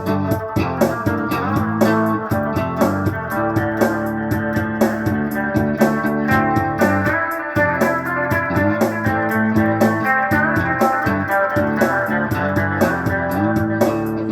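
Instrumental break of a band's song: guitar and organ over a steady beat, no singing.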